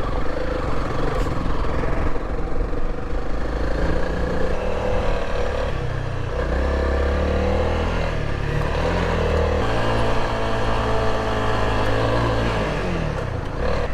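Motorcycle engine running while riding, its pitch rising and falling as the rider changes speed on a dirt road.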